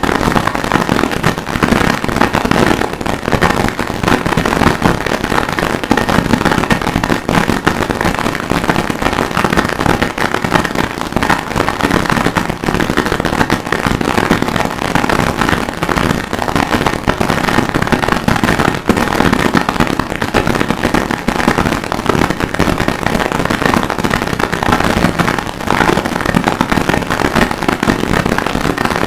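Harsh noise music: a loud, unbroken wall of dense crackling, distorted noise, made from processed recordings of forge work and anvil hammering.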